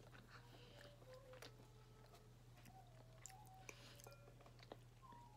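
Near silence: faint chewing, with the odd small click of a fork, over a steady low hum.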